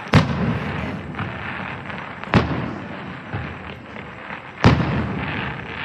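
Aerial fireworks bursting: three loud bangs a little over two seconds apart, each trailing off in a rumbling echo, with crackling between them.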